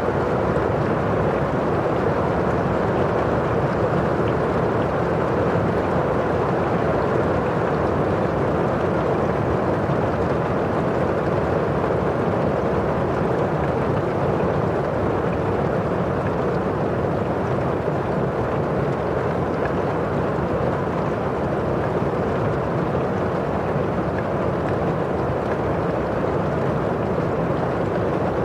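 Steady rain falling on a windowpane and outside, an even, unbroken wash of noise without distinct drips or gusts.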